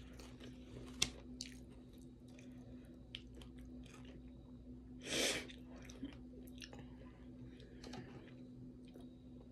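A person chewing a mouthful of taco salad close to the microphone, with small wet clicks throughout, a sharp click about a second in, and a short, louder burst of noise about five seconds in.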